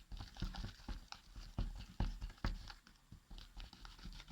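Sticky wood-glue slime being mixed after activator is added, making a quick, irregular run of wet clicks and smacks.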